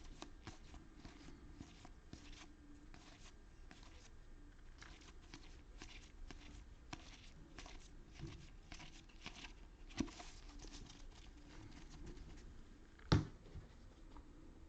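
Baseball trading cards being handled and flipped through by hand: a run of faint dry slides and clicks, with a sharper tap about ten seconds in and a louder knock near the end.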